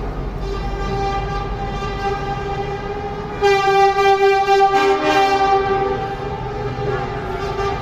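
Truck air horn blowing one long steady note, louder from about three and a half seconds in, with a second, lower horn joining briefly about five seconds in.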